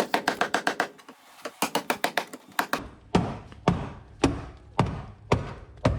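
Hand tools working rusty seat bolts: quick runs of sharp metallic clicking, then a string of heavier knocks about two a second.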